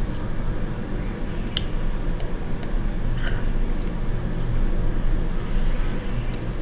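Steady low background hum with a few short, sharp clicks between about one and a half and three and a half seconds in.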